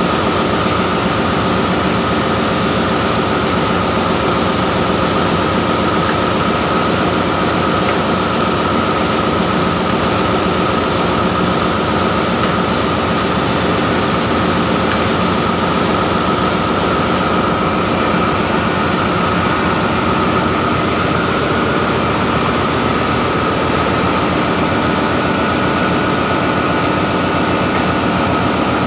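Ship's engine-room diesel machinery running: a loud, steady, unchanging drone with a steady whine over it.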